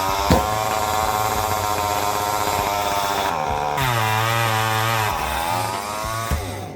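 Chainsaw engine running at high speed, its pitch dipping and then coming back up around four to five seconds in, fading out near the end.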